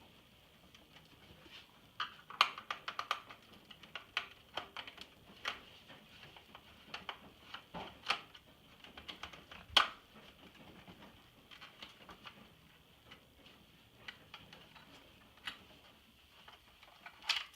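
Irregular light clicks and taps, with a few sharper knocks, from hands handling the plastic parts and screws of an iMac G3 during disassembly.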